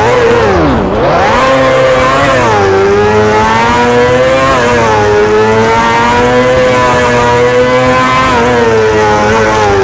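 Motorcycle engine revving: the pitch drops and climbs back twice in the first couple of seconds, then holds steady at high revs with slight wavering, as if the throttle is held.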